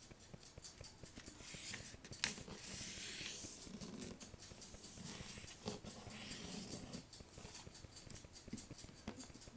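A sheet of paper being folded in half and creased by hand: soft rustling and sliding, with one sharp crinkle about two seconds in.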